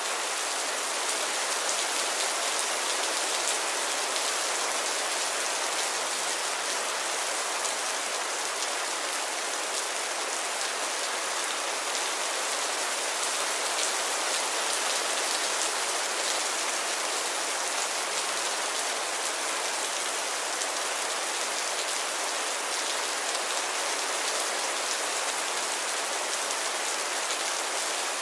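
Steady rain falling, with a constant hiss and the fine patter of many drops striking a surface.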